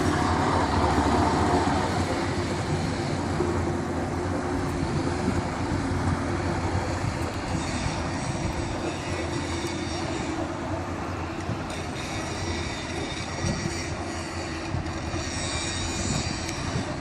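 A train running steadily on the rails, a continuous rumble with a constant low hum and some wheel noise.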